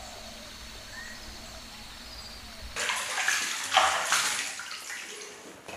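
Quiet low hum with one faint short chirp, then about three seconds in a loud, steady hiss of water starts suddenly, from rain or running water.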